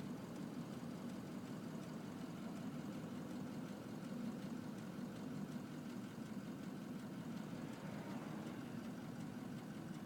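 Ford Power Stroke diesel truck engine running steadily with a low, even hum.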